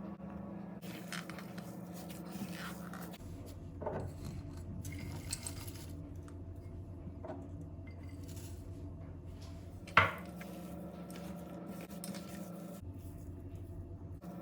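Dishes and cutlery clinking during kitchen work, with scattered small knocks and one sharp, loud clink about ten seconds in, over a steady low hum.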